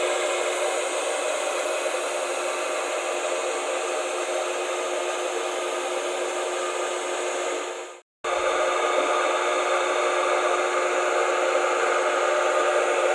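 Large electric motor running with a steady whir and several steady tones, cutting out for a moment about eight seconds in, then resuming unchanged.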